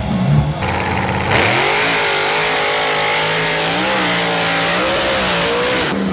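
Monster truck engine running at high revs. It comes in about a second in, holds a steady, slightly wavering pitch, and drops away near the end.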